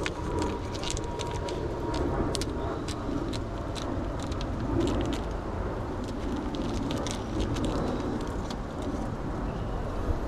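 Steady rain on the roof of an SUV, heard from inside the cabin as a low rumbling patter, with scattered sharp clicks and taps throughout.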